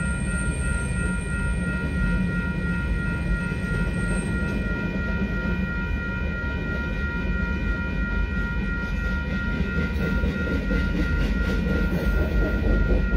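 Union Pacific freight train's cars rolling past a grade crossing: a steady low rumble, with wheel clatter that grows in the last few seconds. A steady high-pitched ringing tone sits over it throughout.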